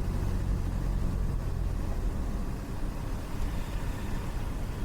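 Cessna 172 engine and propeller running with a steady low drone, heard from inside the cockpit.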